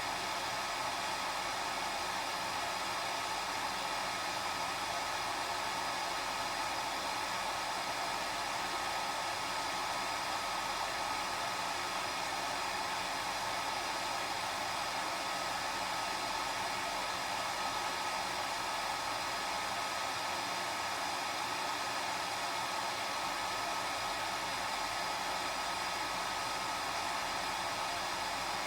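Hair dryer running steadily: an even whooshing hiss of fan and airflow with a faint steady motor whine, unchanging throughout.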